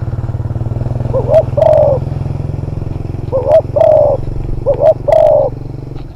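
Spotted dove cooing: three phrases, each a short coo followed by a longer one, about every one and a half seconds. A steady low drone sits underneath and eases off near the end.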